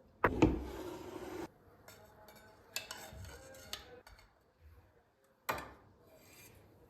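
Kitchenware being handled, dishes and cutlery knocking together: a loud knock followed by about a second of clatter near the start, a few lighter clinks around three seconds in, and one sharp knock later on.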